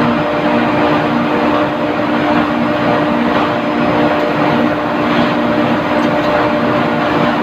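Steady, loud drone of running industrial machinery, with a constant hum of several fixed tones over an even rushing noise.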